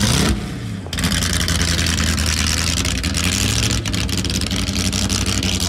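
Ford GT40 race car's V8 engine revved briefly, then running steadily and loud as the car drives off.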